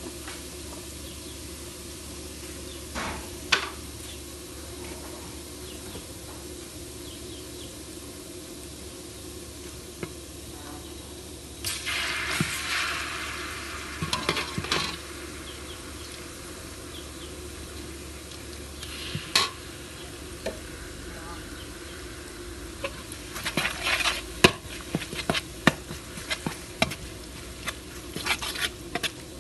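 Minced garlic sizzling in hot oil in a metal wok. About twelve seconds in, the sizzle flares louder for a couple of seconds as a lump of brown paste goes in. Over the last several seconds a metal spatula scrapes and clicks rapidly against the wok as it stirs.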